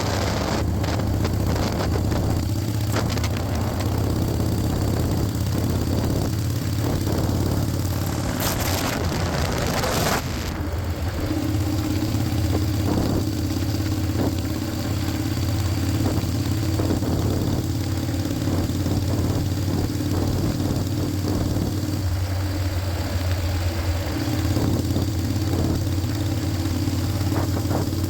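Harley-Davidson Shovelhead air-cooled V-twin motorcycle engine running steadily at idle, with a brief hiss about eight seconds in lasting a couple of seconds.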